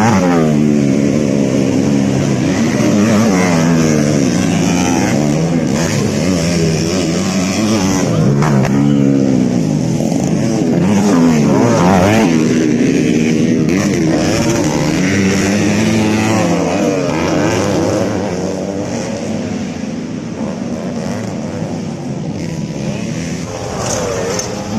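Several motocross bikes racing, their engines overlapping and revving up and down over and over as they work around the track; it gets a little quieter in the last few seconds.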